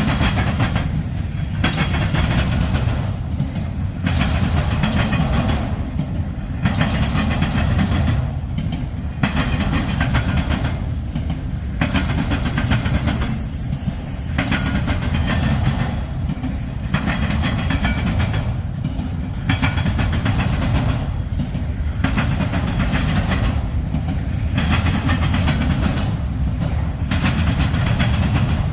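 Freight train cars rolling past at speed: a steady low rumble of wheels on rail, with a clatter that comes round every second or two as each set of wheels passes.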